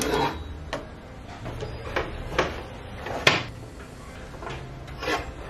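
A series of about six sharp knocks and clicks, spaced irregularly and loudest a little past three seconds in, as objects are handled, over a steady low hum.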